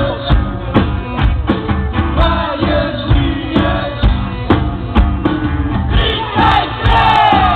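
Rock band playing live, with drums hitting a steady beat under the instruments and a voice singing over them, strongest near the end.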